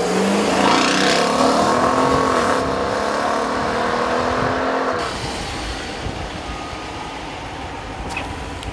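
2014 Dodge Durango R/T with its 5.7-litre HEMI V8 accelerating past and away down the road. The engine note rises at first, then slides slowly down in pitch as it recedes, and drops off after about five seconds.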